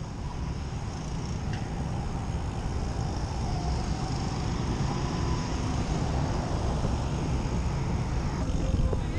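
Wind rumbling on the microphone of a camera carried on a moving bicycle, with road traffic running alongside.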